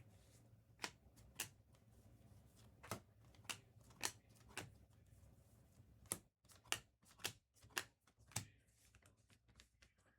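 Trading cards being flipped through one by one: faint, sharp card flicks at an uneven pace of roughly two a second, coming closer together past the middle.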